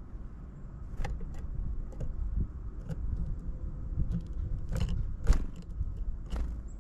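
About seven scattered sharp clicks and taps, the loudest about five seconds in, over a low steady rumble.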